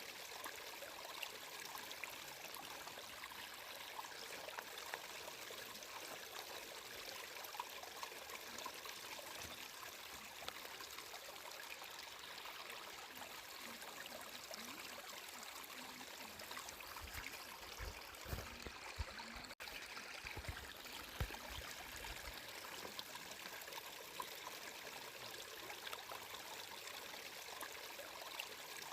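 Flowing stream water trickling and running steadily, with a few low thumps a little past halfway and a split-second dropout in the sound.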